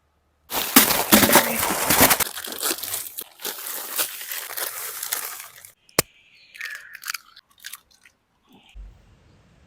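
Coarse salt crunching and crackling as it is handled and packed, dense and loud for about five seconds, then one sharp click and a few faint scrapes.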